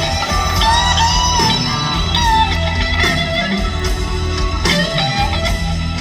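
Live rock band playing an instrumental passage: an electric guitar lead with bent, gliding notes over bass guitar and drums.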